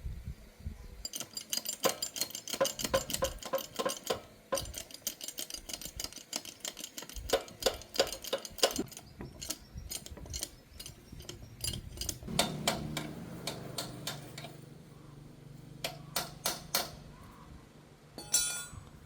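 Metal tools and small engine parts clinking and tapping in quick, irregular runs of sharp clicks, thinning out in the second half.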